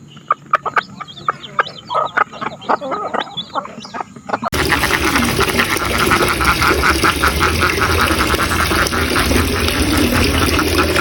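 Chickens clucking in short, sharp, irregular calls. About four and a half seconds in, an abrupt cut to a louder scene of many ducks quacking rapidly together over a steady low rumble.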